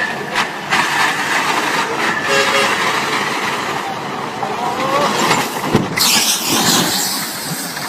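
Heavy vehicle or machinery noise: a steady rough din with scattered knocks and clanks. It grows louder about six seconds in.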